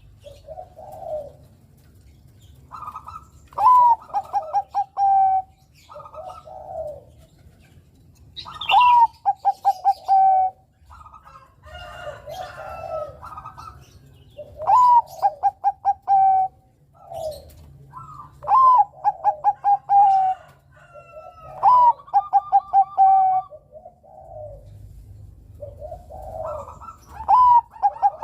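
Bangkok-type zebra dove (perkutut) cooing: about seven song phrases a few seconds apart, each a rising note, then a quick stuttering run, then a held steady coo. Softer, lower coos come between the phrases.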